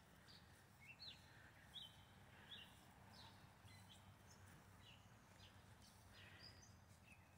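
Near silence with faint, short bird chirps, about one a second.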